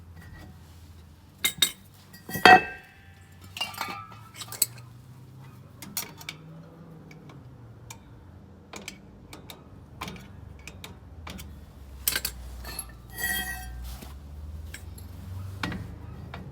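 Metal tools and parts clinking and clanking: a dozen or so scattered knocks, the loudest a ringing clank about two and a half seconds in.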